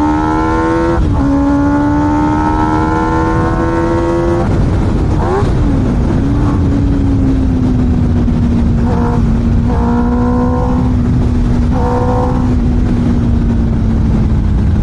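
Yamaha R1 superbike's inline-four engine under acceleration, pitch climbing with an upshift about a second in. Around four and a half seconds the throttle closes and the revs drop, then the engine runs steady with short throttle openings. A steady rushing noise sits underneath throughout.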